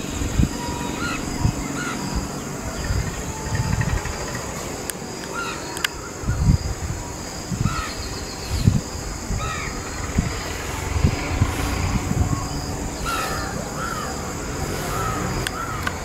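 Outdoor birds calling, short calls repeating every second or so, over a steady high-pitched drone, with scattered low thumps.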